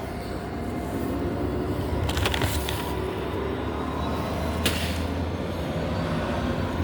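Low, steady rumble of a large vehicle running, building slightly, with a few sharp clicks over it.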